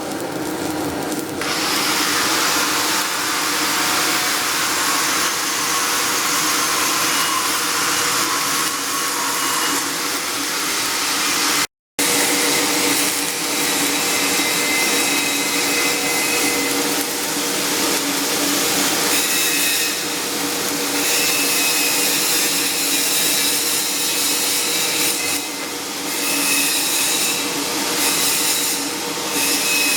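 Flux-cored arc welding on carbon-steel pipe: a steady, loud arc hiss that starts about a second and a half in and drops out for a moment about twelve seconds in.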